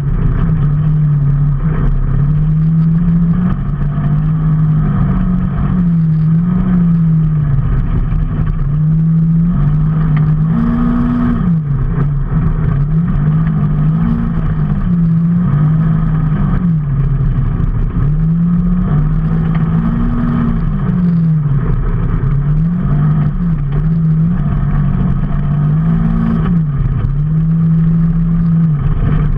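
Motorcycle engine running under way, its pitch rising and falling again and again as the throttle opens and closes, over steady road and wind noise.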